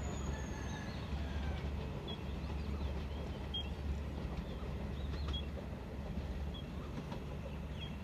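Distant diesel train, hauled by a GE diesel-electric locomotive, giving a low, steady rumble. Small birds chirp briefly now and then over it.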